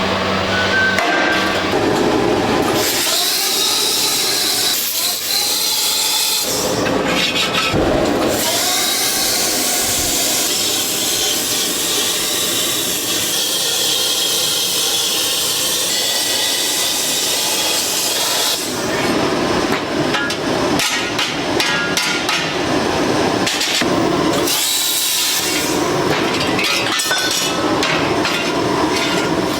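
Metalworking in a fireplace factory: hammer strikes and tool noise, with long stretches of hissing, grinding-like sound broken by bursts of knocks.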